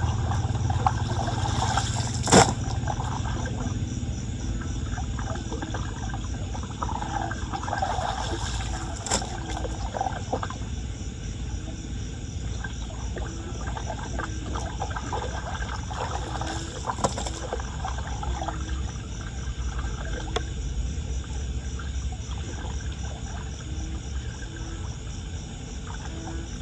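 Floodwater running and draining into a street drain: a steady low rumble with splashing water, broken by a few sharp knocks, the loudest about two seconds in.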